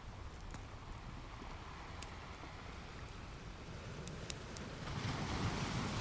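Ocean waves washing on a shore, one wave swelling and breaking near the end, with a few sharp pops from a crackling wood fire.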